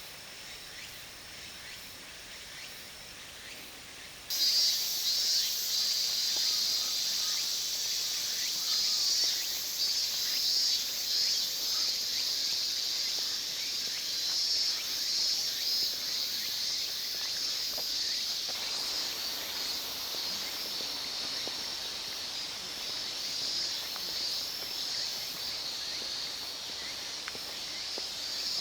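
A dense chorus of insects chirping, high-pitched and shimmering, which starts abruptly about four seconds in, after a quieter outdoor hiss.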